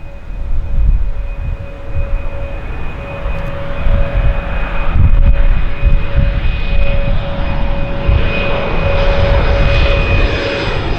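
Bombardier Challenger 605 business jet's twin GE CF34 turbofans on landing: a steady whine with two held tones over a rushing noise that grows louder as the jet comes by.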